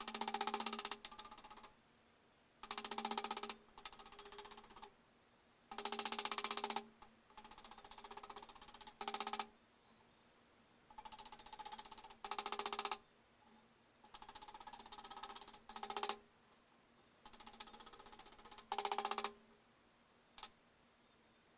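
Rapid metal-on-metal hammering along the bent edge of a steel strip, in bursts of about a second with short pauses between. The struck steel gives a steady ring under each burst.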